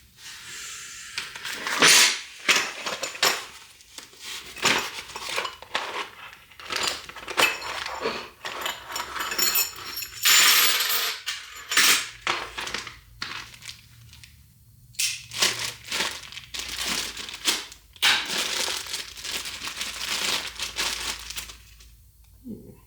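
Irregular clinks, scrapes and rustling of hands working on a greasy Toyota front hub and its parts, wiping grease off with a rag.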